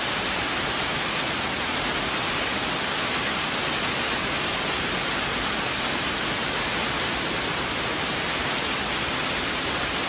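Heavy rain and hail coming down in a dense, steady hiss.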